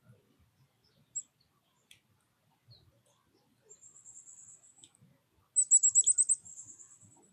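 Small songbird calling: a faint very high trill, then a loud rapid run of about ten quick, high down-slurred notes about five and a half seconds in, trailing off into a fainter trill. A few single high chips come before it.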